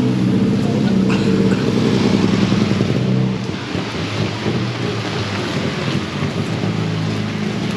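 Heavy rain pouring down with a steady hiss, while a motor vehicle's engine runs close by with a low, steady hum that fades away about three seconds in.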